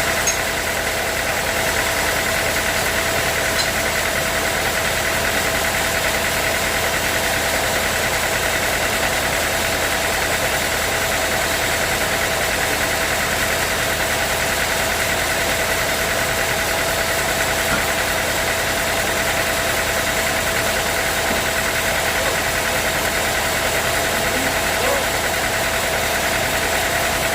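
Sawmill machinery running steadily: a constant motor hum with a high, even whine and no pauses or changes.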